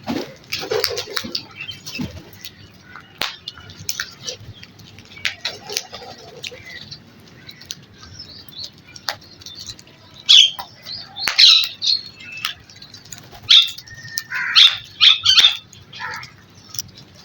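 Crows feeding: wings flapping, scattered short taps and brief harsh bird sounds, with the loudest flurries in the second half.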